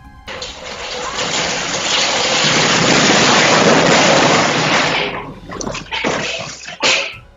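Snow-laden overhead shed collapsing and snow sliding down: a sudden loud rushing noise that builds over the first two seconds, holds, then dies away after about five seconds into a few shorter rushes.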